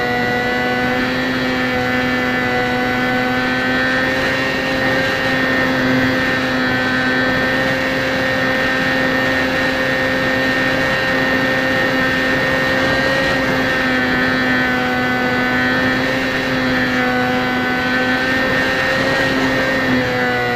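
HobbyZone Champ RC plane's electric motor and propeller whining steadily in flight, heard from a camera strapped under the plane, with a steady rush of wind over the microphone. The pitch wavers a little as the throttle changes.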